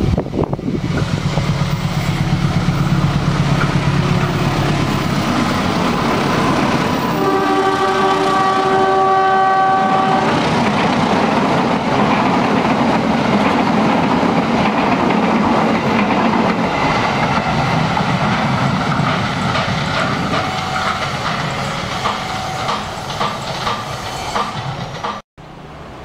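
GE CC204 diesel-electric locomotive approaching with its engine humming, then sounding a multi-tone horn for about three seconds. Its passenger coaches then rush past with loud, dense clattering of wheels over the rails, easing off slightly near the end. The sound drops out abruptly about a second before the end.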